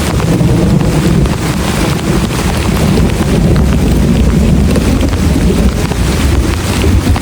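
Very heavy rain drumming steadily on a camp shelter: a loud, dense wash of drop hits with a strong low rumble underneath.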